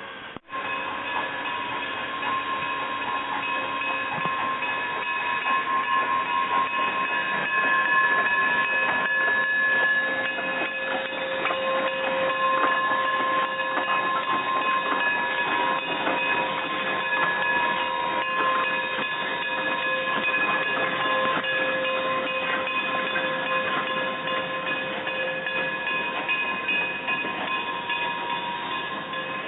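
Narrow-gauge steam train rolling along the rails: a steady running noise with fine rail clicks, and several high, steady squealing tones held throughout. The sound cuts out for an instant just after the start.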